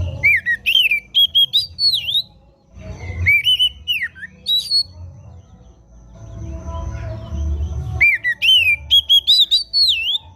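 Oriental magpie-robin (kacer) singing: three loud bursts of clear whistled phrases that slide up and down, with short pauses between them, over a low background hum.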